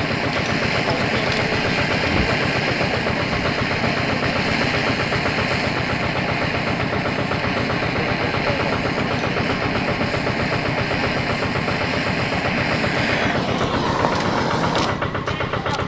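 A motor or engine running steadily with a fast, even pulse; about 13 seconds in its higher hiss drops away, and a few clicks follow.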